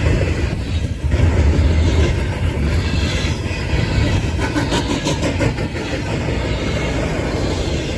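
CSX I166 intermodal freight train rolling past, a steady loud rumble of steel wheels on the rails.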